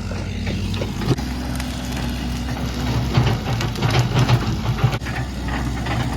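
Coleman mini bike's small single-cylinder engine running steadily, getting louder and rougher about three seconds in.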